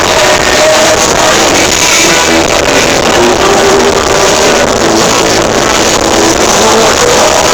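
Live rock band playing loud, with electric guitar, recorded from the audience.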